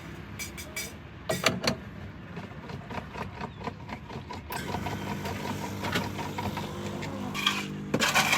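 Clatter and knocks of coffee-bar work, then a steady electric machine hum that starts about halfway through, with a loud burst of knocks near the end.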